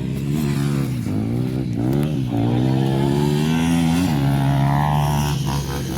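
Motocross bike engine revving on the track, its pitch climbing and dropping back several times as the throttle is opened and closed.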